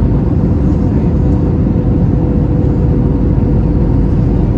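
Steady cabin roar inside an Airbus A321 on final approach, heard from a window seat: engine and airflow noise, heaviest in the low end, with a steady hum running through it.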